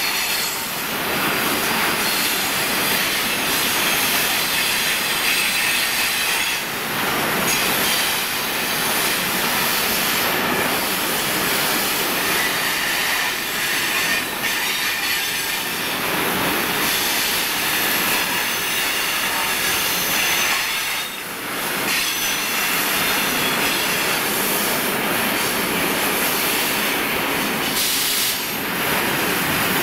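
Loaded freight train of open wagons rolling past: steady wheel-on-rail rumble, with wheels squealing on the curve.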